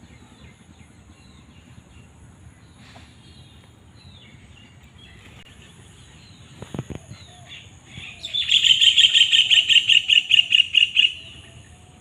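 Birds chirping, then one bird calling loudly for about three seconds with a fast, even series of repeated notes, about six a second, which stops about a second before the end. A short knock comes about halfway through.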